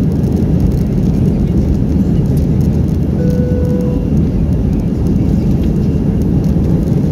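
Airbus A319 cabin noise heard from a window seat: a steady, loud rumble of the engines and airflow. About three seconds in, a short steady tone sounds for under a second.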